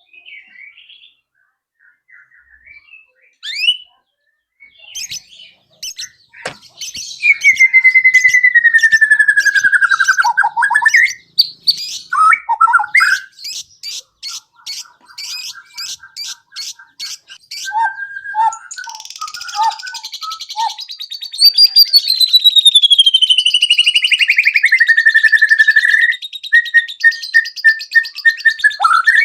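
White-rumped shama (murai batu) singing a loud, varied song of long gliding whistles, rapid trills and quick repeated notes, sparse at first and then almost unbroken. One long whistle falls steadily in pitch over several seconds.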